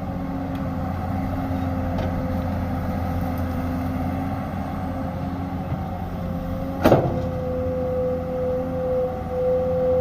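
Excavator's diesel engine running steadily with a steady whine over its hum, and one sharp knock about seven seconds in.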